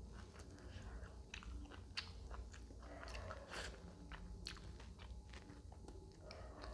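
Close-miked eating: a person chewing food, with irregular crunchy bites and small clicks.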